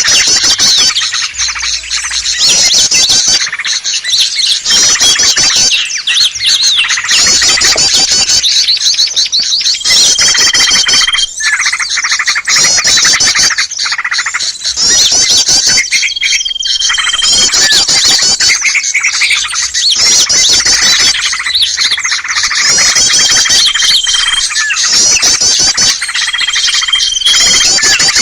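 A dense, loud chorus of small birds chirping and twittering rapidly without pause: a bird-lure (pikat) recording meant to draw in small wild birds. A short, level whistled note cuts through four times, about every six seconds.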